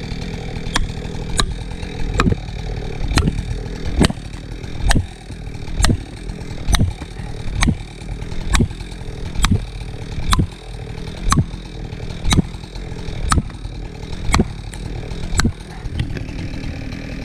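Felling wedge being driven into a tree's cut with about eighteen sharp, evenly paced blows, roughly one a second. A chainsaw idles steadily underneath.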